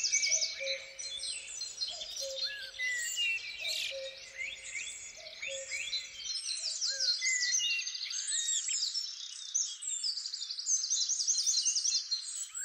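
Several songbirds singing and chirping at once in woodland: quick trills and repeated high phrases overlap throughout. A low note repeating about once a second, and a faint low background rumble, both stop about halfway through.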